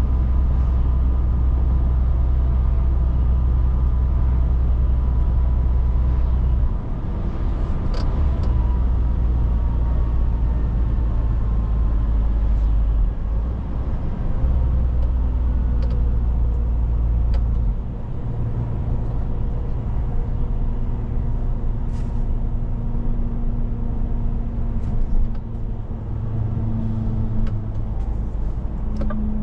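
Scania S 500 truck engine running on the road, a heavy low drone that eases off a few times, about 7, 13 and 18 seconds in, with scattered short clicks.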